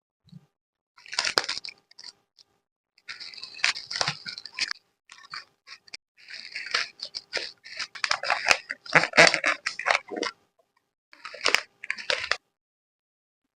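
Plastic packaging, such as card sleeves and protective film, crinkling and rustling as it is handled. It comes in several short bursts with brief pauses between them, the longest stretch running from about three seconds in to about ten seconds in.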